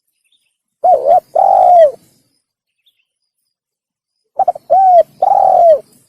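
Spotted dove cooing in two phrases of low, arched coo notes. The first phrase comes about a second in and the second near the end. Each phrase is a quick short note or two followed by a longer, drawn-out coo.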